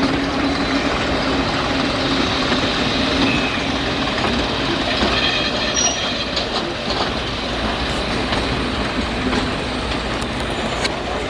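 Heritage railway train running on the track: a loud, steady rumble and rattle, with faint high squeals from the wheels around the middle.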